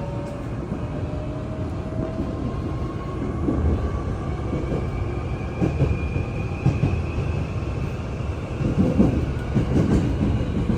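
Hankyu Kyoto Line electric train running, heard from inside the car: a steady rumble of wheels on rail with scattered knocks, a cluster of louder thumps near the end, and a faint motor whine slowly rising in pitch as the train gathers speed.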